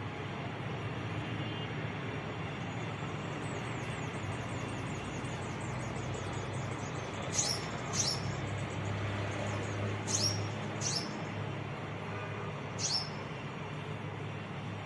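A small bird gives five sharp, high chirps, each sweeping downward, over a steady low background rumble. A fast, faint, high ticking runs through the first few seconds.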